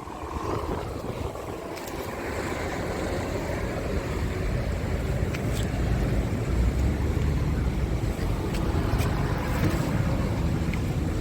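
Scania R580 truck's V8 diesel engine running with a deep, steady rumble that grows louder over the first few seconds and then holds.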